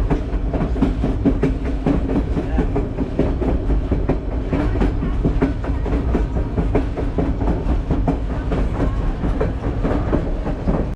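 Passenger train rolling along the rails: a steady low rumble with rapid, irregular clacking and rattling from the wheels and cars.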